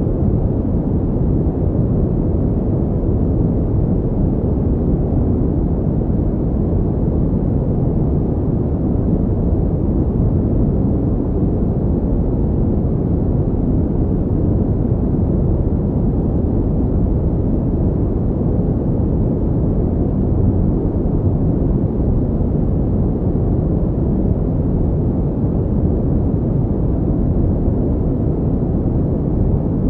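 Steady synthetic pink noise, a constant deep, muffled hiss with no changes or events.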